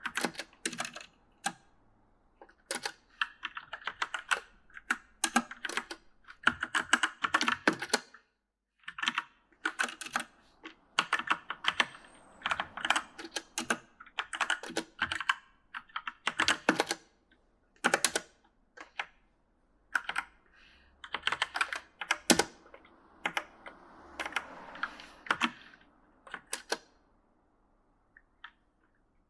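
Typing on an E-Element mechanical gaming keyboard: rapid clacking keystrokes in uneven bursts with short pauses, thinning out near the end.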